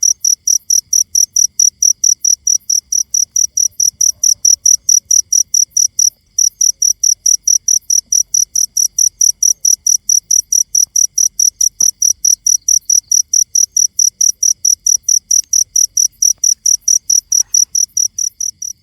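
Cricket chirping in a fast, steady series of high-pitched pulses, about four or five a second, with one brief break about six seconds in.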